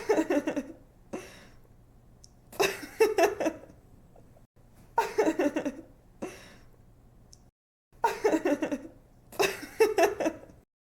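A young woman laughing in giggling bursts: about five short bouts, each under a second, with brief pauses and softer trailing breaths between them. A faint low hum sits under the laughs.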